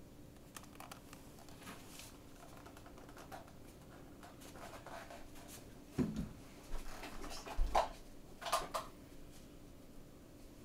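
Faint scrapes and clicks of handling, with a few louder knocks about the middle, over a low steady hum.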